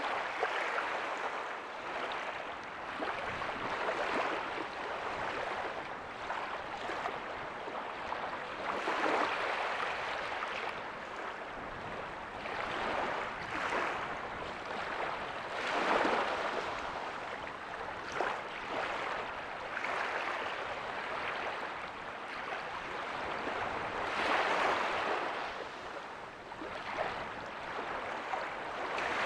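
Ocean waves breaking softly on a beach: a steady wash of surf that swells and fades, with louder breaks about nine, sixteen and twenty-five seconds in.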